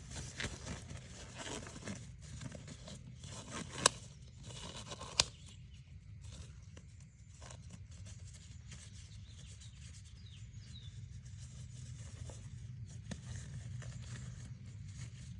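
Faint rustling and scraping of hands handling small materials, with two sharp clicks about four and five seconds in, over a steady low hum.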